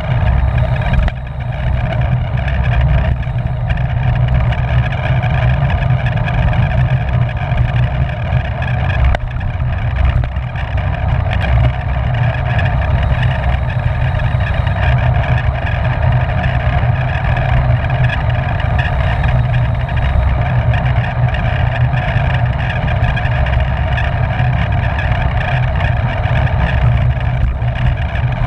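Loud, steady wind rush on a bike-mounted camera's microphone while riding at racing speed.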